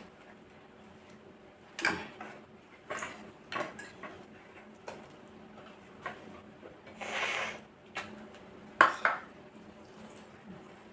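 Cutlery clinking against dishes in a few scattered knocks, with a short scrape around the middle; the loudest is a quick double clink near the end.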